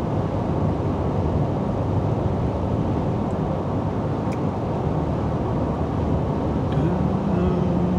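Road and engine noise inside a moving vehicle's cab at highway speed, a steady rumble. About seven seconds in, a low steady engine hum comes up over it.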